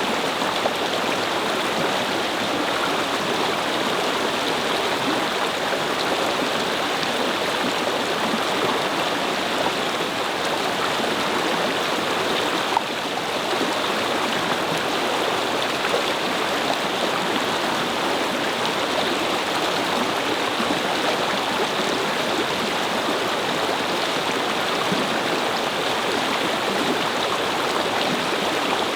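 A babbling brook: water flowing steadily, an even rushing and gurgling with no let-up.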